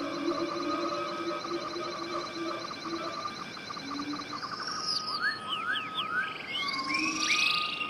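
Several birds singing at once, with rapid trills and a run of short rising whistles, over low steady tones.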